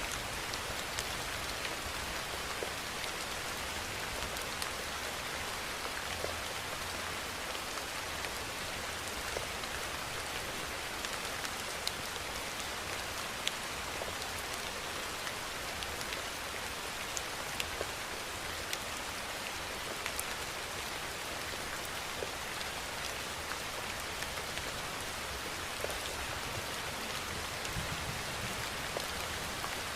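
Steady rainfall, an even hiss with many individual drops pattering and ticking on a surface.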